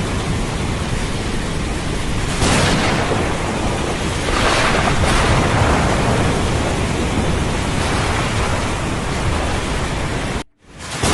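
Heavy rain with rolling thunder, a dense steady wash that swells twice in the first half. The sound cuts out abruptly for about half a second near the end and then comes back, like a loop splice.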